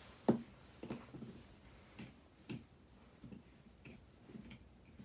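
Irregular light clicks and soft knocks from small objects being handled, about eight over a few seconds, the sharpest click about a third of a second in.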